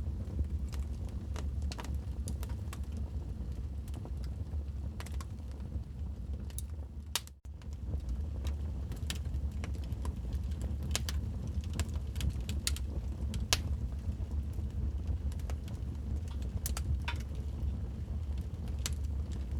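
Wood fire burning in a fireplace, with irregular sharp crackles and pops over a steady low rumble. The sound drops out for a split second about seven seconds in, then resumes.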